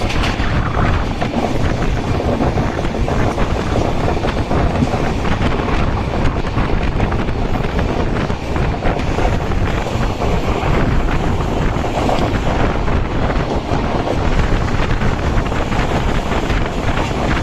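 Passenger train running at speed, a steady heavy rush of noise with strong wind buffeting the microphone.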